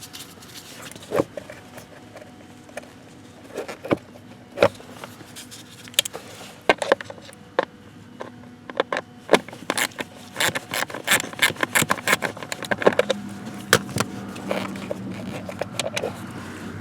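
Hand work on the car's blower-motor area: irregular clicks, taps and scraping of tools, fasteners and plastic parts being handled, growing busier about halfway through.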